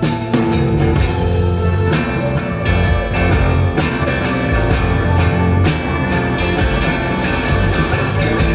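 Live rock band playing an instrumental passage: electric guitar, bass and a drum kit keeping a steady beat.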